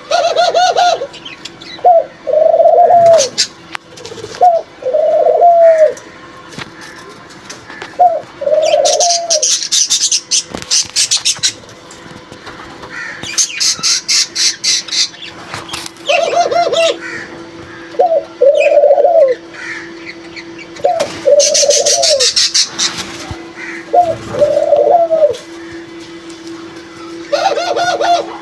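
Grey francolins calling: loud, fast, high-pitched repeated call series that come three times and start again near the end. Between them are lower cooing notes, each a short stutter followed by a drawn-out note, over a steady low hum.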